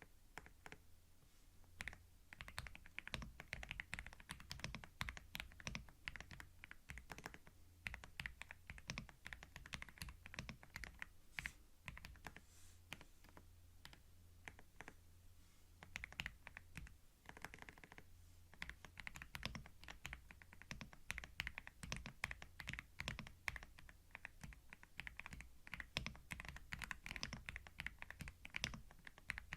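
Computer keyboard being typed on in quick runs of key clicks, with brief pauses between bursts, over a faint low hum.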